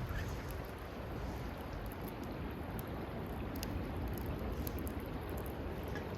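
Wood fire burning with scattered small crackles and pops over a steady, low rushing noise.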